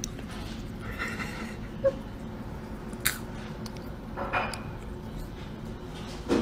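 Popcorn being chewed: a few short crunches and mouth clicks, spaced a second or so apart, over a low steady hum.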